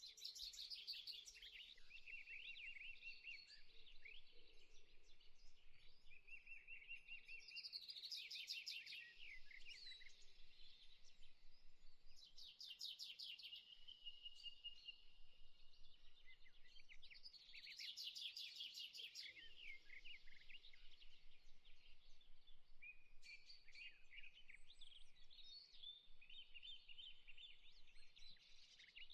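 Faint birdsong ambience: several small birds chirping and warbling continuously, with a few bursts of rapid, very high trills.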